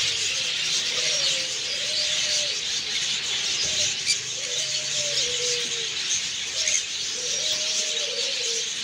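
Many caged birds chirping and chattering together in a constant high chorus. A lower, cooing call rises and falls about four times over it.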